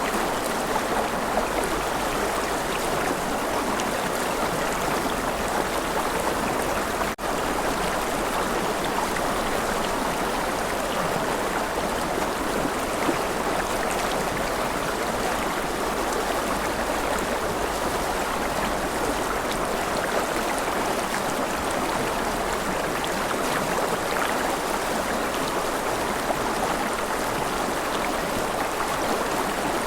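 Steady rushing of a river flowing over its bed, even throughout, with a momentary dropout about seven seconds in.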